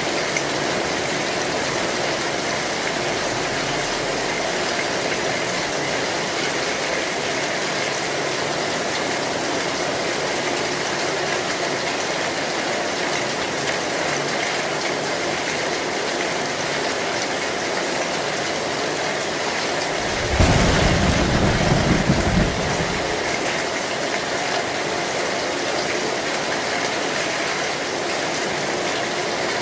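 Heavy rain drumming steadily on an old corrugated metal roof, an even hiss. About two-thirds of the way through, a low rumble of thunder swells for about two seconds.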